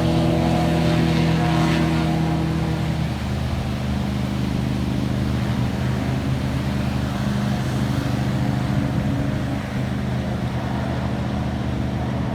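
Motorboat engine running with a steady drone; its note changes and it drops slightly in level about three seconds in.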